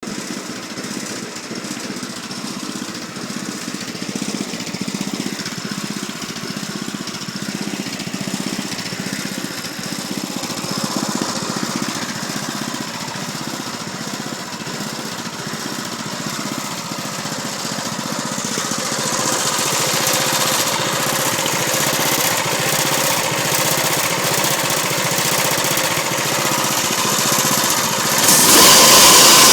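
Single-cylinder Honda-clone 6.5 hp snowblower engine running steadily. It grows louder and brighter in tone about two-thirds of the way through, and steps up again near the end.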